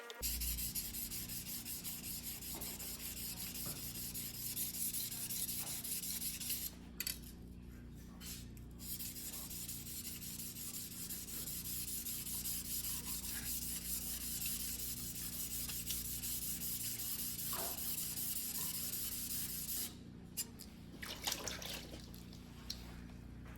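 Single-bevel fuguhiki sashimi knife blade being stroked back and forth on a wet whetstone in quick, even scraping strokes. The strokes stop briefly twice, about seven seconds in and again near twenty seconds.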